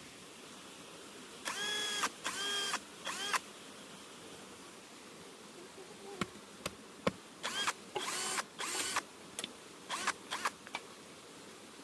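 Power drill run in short bursts, its motor whine rising and falling with each trigger pull, with a few sharp knocks between bursts.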